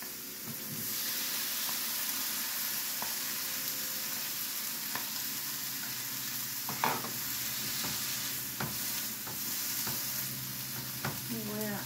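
Chopped onion and tomato sizzling as they fry in a pan. The sizzle grows louder about a second in, and a utensil stirring the food gives occasional light knocks against the pan.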